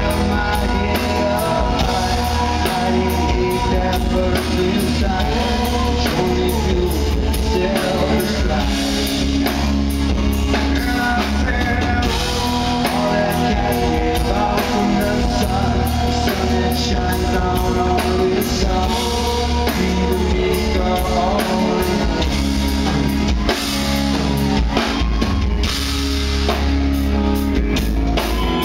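Live rock band playing a song: drum kit and guitars with a male lead singer.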